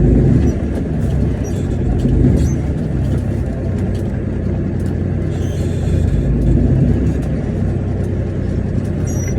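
International 9900 semi truck's diesel engine running at low speed with a steady low drone that rises and falls slightly, as the tractor backs under a trailer.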